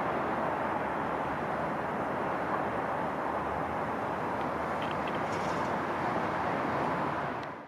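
Steady rumbling, rushing noise of a train rolling by, with a few faint squeaks about five seconds in; it cuts off abruptly near the end.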